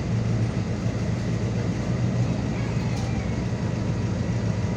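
MAZ 216.066 city bus heard from inside the passenger cabin: a steady low engine drone with running noise.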